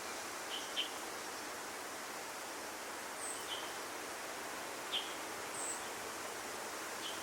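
Outdoor ambience with a steady hiss, broken by short, scattered bird chirps: a few lower calls and a couple of thin, high ones.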